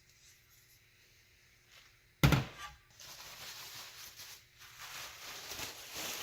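Handling noise: one sharp thunk about two seconds in, then continuous rustling with small knocks.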